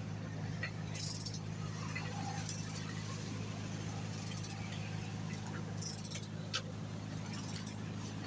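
Small metal clinks and ticks of tools and engine parts being handled, scattered irregularly over a steady low hum.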